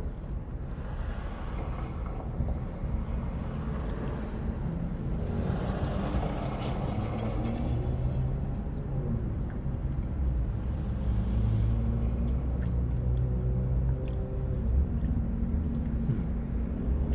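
Steady low rumble of an idling vehicle engine, with a broad rushing swell about five to seven seconds in. Small clicks and mouth sounds of someone chewing bacon run over it.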